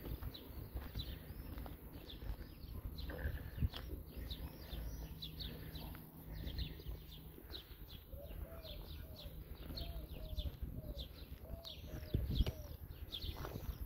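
Small birds chirping over and over, with a run of lower-pitched calls from about the middle to near the end, over a low outdoor rumble with a few knocks.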